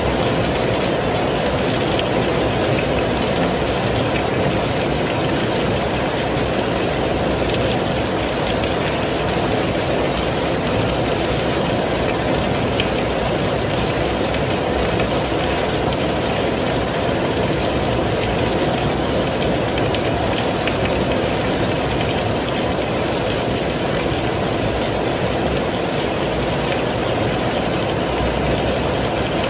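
Heavy rain falling steadily: an even, unbroken rushing noise, fuller in the low end than a light patter.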